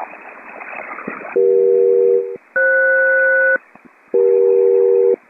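HF single-sideband radio hiss, then a SELCAL selective-calling signal sent by the ground station to check an aircraft's SELCAL: steady two-tone chords about a second long each. One tone pair is followed by a different pair, and then the first pair again.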